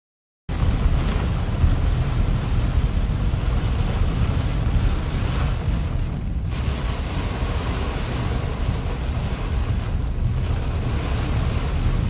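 Heavy rain pelting a car's windshield and roof, heard from inside the car as a steady rushing noise with a deep rumble. It starts abruptly about half a second in.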